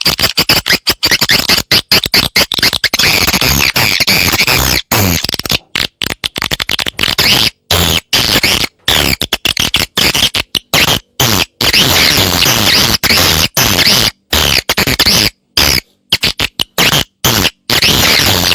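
Recorded swiftlet calls: dense, rapid, high twittering broken by abrupt short silences. It is a lure call, played to draw swiftlets to roost and nest in a prepared swiftlet house.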